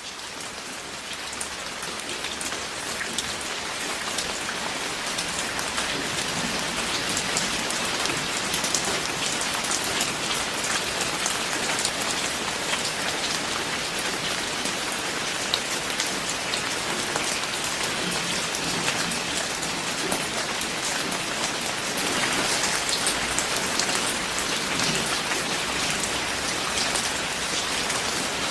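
Steady heavy rain with many distinct drop hits. It fades in over the first few seconds, then holds at an even level, and no thunder stands out.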